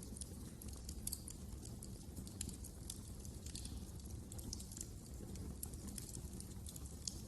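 Wood fire crackling: many small irregular pops and snaps over a low steady rumble of the burning logs.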